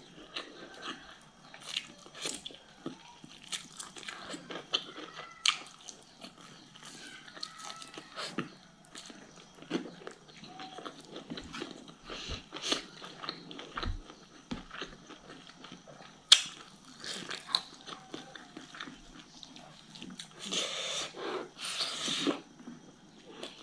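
Close-up eating sounds: chewing and biting bone-in chicken and hand-scooped rice, with wet mouth smacks and irregular small crunches. A sharp click comes about 16 seconds in.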